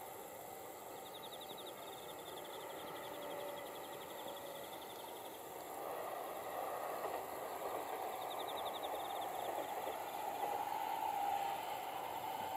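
A distant train on the Tohoku Line approaches, its running noise growing louder from about halfway through. Insects trill in rapid pulses twice over it.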